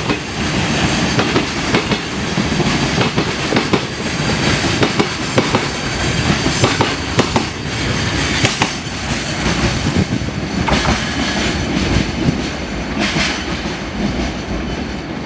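Freight train wagons rolling through at speed, wheels clattering over rail joints in a continuous clickety-clack over a steady rumble.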